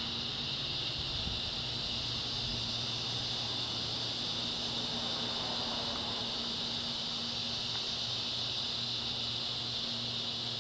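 Evening chorus of singing insects: a steady, shrill drone at two high pitches, the higher one growing stronger about two seconds in, over a faint low hum.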